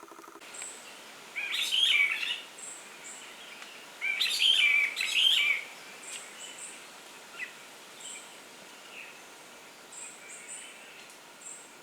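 A songbird singing two loud warbled phrases, each about a second or more long, a few seconds apart, with faint short high chirps from other birds in between.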